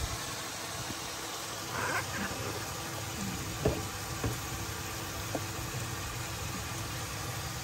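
Onion-tomato masala bubbling in hot oil in a pan, a steady sizzling hiss, with a few light taps of a spoon in the pan about halfway through as chilli powder goes in.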